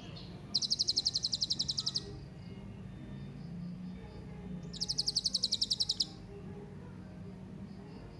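Hanging parrot (serindit) giving two rapid, high-pitched trills, each about a second and a half long, with about four seconds between them.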